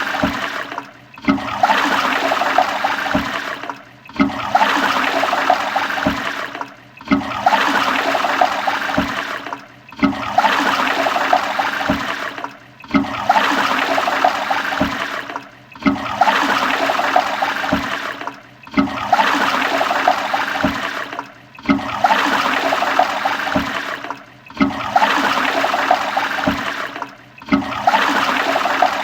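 Toilet flushing, a short flush looped over and over: a rush of water that cuts off and starts again with a knock about every three seconds.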